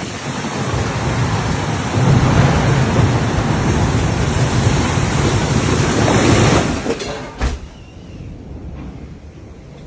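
Loud rush of severe-storm wind and rain. It builds and holds for several seconds, then drops off sharply about seven seconds in, with a single sharp click just after.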